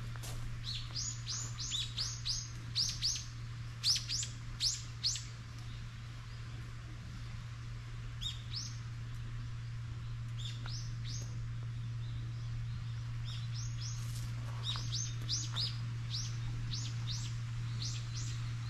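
Small birds chirping: quick runs of short, high notes that each fall in pitch, in a flurry over the first few seconds and again near the end. A steady low hum runs underneath.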